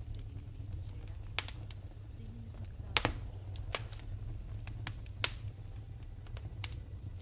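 Wood fire in a fireplace crackling: a low steady rumble with a handful of sharp pops, the loudest about three seconds in.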